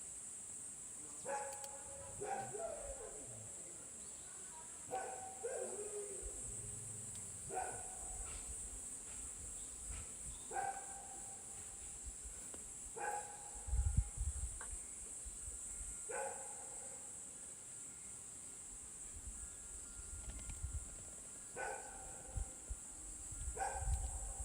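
A dog barking in single short barks, about ten of them spaced irregularly a second to a few seconds apart, over a steady high-pitched hiss.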